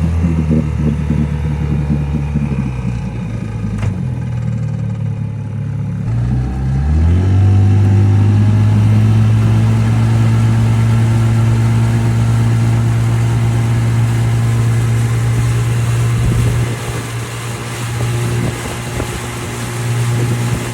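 1956 Johnson 7.5 hp Seahorse two-stroke outboard motor running loudly, at a lower speed at first. About six seconds in it is throttled up, its pitch rising to a steady, higher cruising speed.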